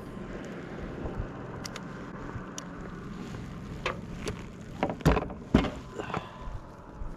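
Sharp knocks and taps of paddle or gear against a plastic fishing kayak, coming in a cluster from about four seconds in, over steady wind noise on the microphone.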